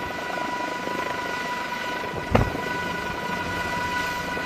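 Heavy lifting machinery running with a steady drone and a high steady whine, with a single clank about two and a half seconds in.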